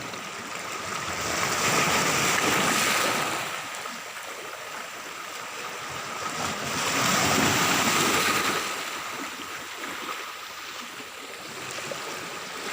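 Sea waves washing onto a beach, with two surges about five seconds apart over a steady wash of surf.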